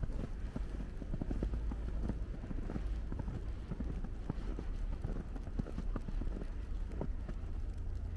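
Footsteps crunching through snow at a walking pace, over a steady low rumble.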